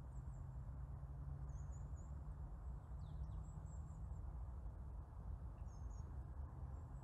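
Woodland ambience: a small bird's faint, very high, thin chirps, several short ones scattered through, with one quick falling note about three seconds in, over a steady low rumble.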